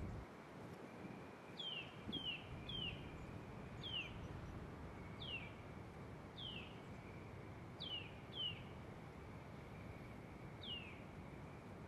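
A small bird's short high chirps, about nine of them, each sliding quickly downward in pitch and coming at uneven intervals, over low outdoor background noise.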